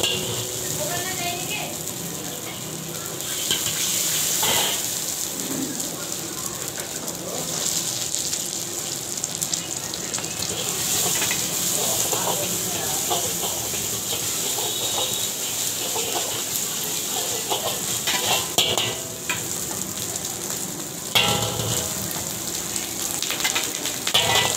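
Food sizzling and frying in hot oil in a large iron wok, with a steel ladle scraping and clanking against the pan as it is stirred, in a run of short sharp strokes over a steady hiss.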